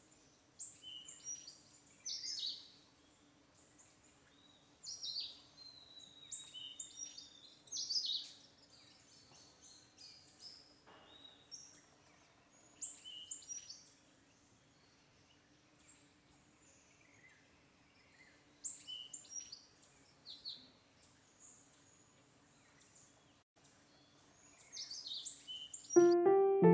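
Small birds chirping and calling in short bursts of quick, high, mostly falling notes every few seconds, over a faint steady hum. Piano music comes in right at the end.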